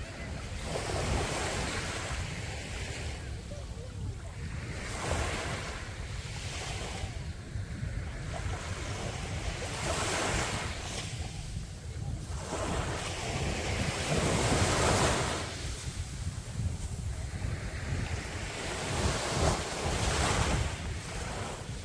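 Sea waves breaking and washing up a beach in repeated surges every few seconds, the biggest about two-thirds of the way in, over a steady low rumble of wind on the microphone.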